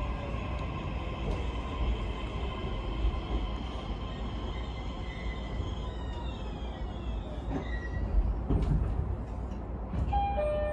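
JR East E131 series 1000 electric train heard from inside the car: a steady rumble of wheels on rail with the traction inverter's whine, its tones gliding down in pitch midway through as the train slows. A few knocks near the end, and a pair of steady tones in the last second.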